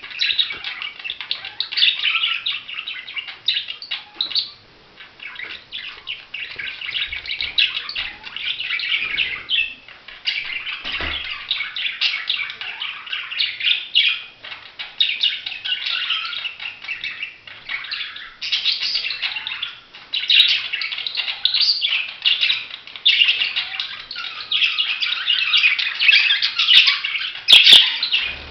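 Budgerigars chattering and warbling: a near-continuous stream of fast, high chirps with only short pauses, and a couple of sharp clicks near the end.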